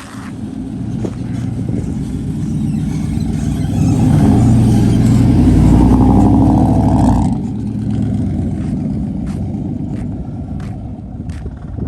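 Lifted Chevy Silverado pickup's engine running, swelling louder from about three seconds in as it revs or pulls, then dropping back suddenly about seven seconds in and running on steadily. A few light clicks near the end.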